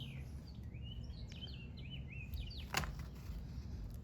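A small bird chirping in a quick run of short warbling notes, then a single sharp knock about three seconds in, over a low steady background hum.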